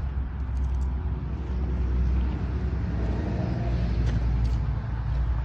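Kioti NS4710 compact tractor's diesel engine idling steadily.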